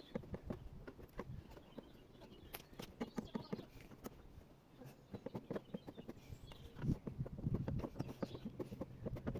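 A run of irregular knocks and taps, some close together and some spaced out, with a low hum growing in near the end.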